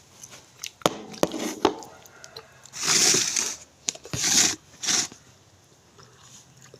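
A rooster crowing in three loud, noisy bursts about three seconds in, after a few small clicks.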